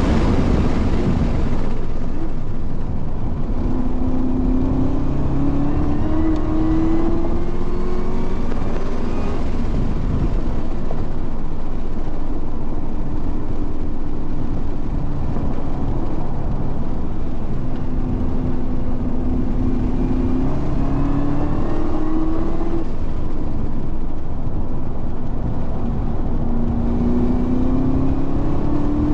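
Car engine at full throttle heard from inside the car on a race track, its note climbing through the revs and dropping back at each upshift, several times over, under constant wind and tyre noise.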